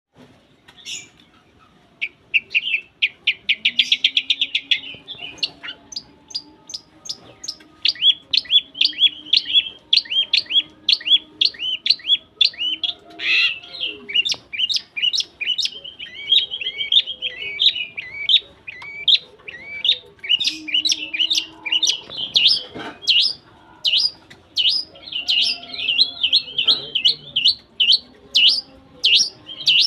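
Long-tailed shrike (cendet) singing: a fast, almost unbroken run of sharp, high chirps and rattling trills, starting after a single call in the first couple of seconds.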